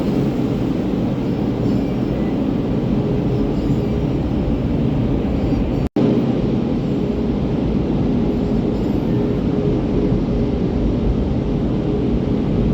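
Automatic car wash running over the car, heard from inside the cabin: a steady dense rush of water spray and washing machinery with a faint steady motor hum, broken by a brief cut-out about six seconds in.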